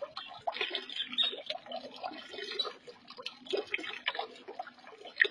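Small birds bathing in a small garden pond: irregular splashing and dripping water, with short bird calls mixed in.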